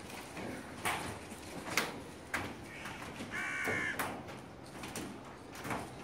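Birds calling with harsh caws: a handful of short calls about a second apart, and a longer pitched call about three and a half seconds in.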